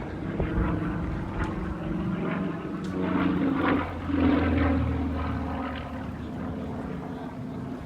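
Propeller airplane engine droning overhead, growing louder to a peak around the middle and then fading as it passes.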